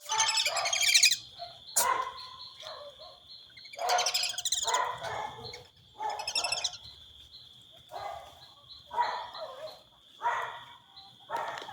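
Ducks calling in a series of harsh calls, one every second or two, with rapid high trills at the start and about four seconds in. A steady high-pitched whine runs underneath.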